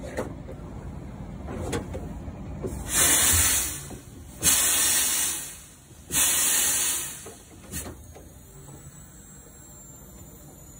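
1914 Fowler showman's steam engine letting out steam in three loud, hissing bursts about a second apart, after the starting valve is called for to get the engine to move, over a low rumble.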